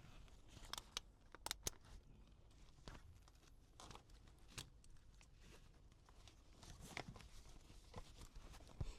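Near silence: faint rustling with scattered light clicks.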